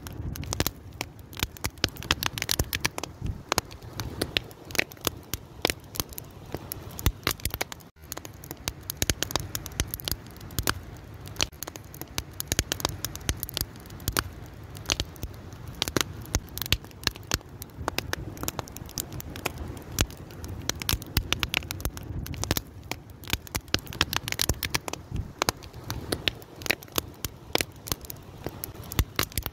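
Wood fire burning, with dense, irregular crackles and pops over a low steady rumble of the flames.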